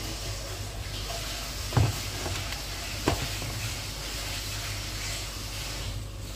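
Steady sizzling hiss of keema, onion and tomato cooking in oil in an aluminium pressure cooker on a gas burner, with two sharp knocks about two and three seconds in.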